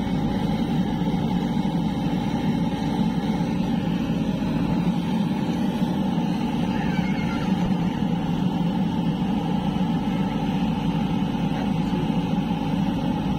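Heavy diesel engine running steadily at an even speed, a constant low drone.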